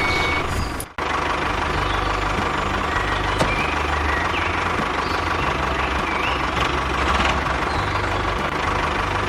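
An engine running steadily, with a brief dropout about a second in.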